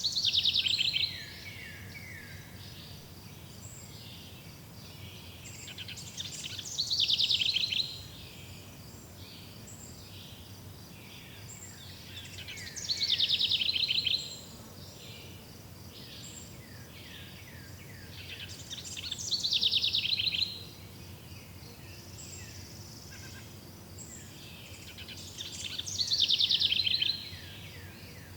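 A songbird repeating the same short, rapid, descending trilled song phrase five times, about every six to seven seconds, over a steady low background hiss, with faint high chirps between the phrases.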